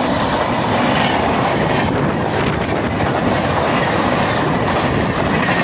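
Passenger train coaches passing at speed close by: a loud, steady rumble of steel wheels on the rails with clacks as the bogies cross the rail joints.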